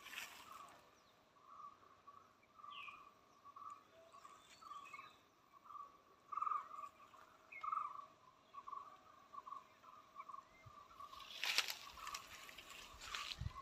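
Faint rural outdoor ambience: an animal calling in short pulses at one steady pitch, over and over, with scattered short bird chirps. A louder noisy burst sounds near the end.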